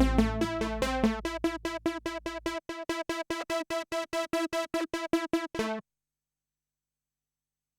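Kurzweil K2000 synthesizer factory program played dry: a fast run of evenly repeated short notes over a held low bass note. The bass drops out about two and a half seconds in, and the repeated notes break off about six seconds in.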